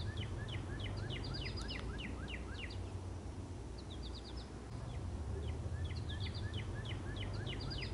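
A bird singing: runs of short, quick, falling chirps, several a second, with a break in the middle, over a steady low background rumble.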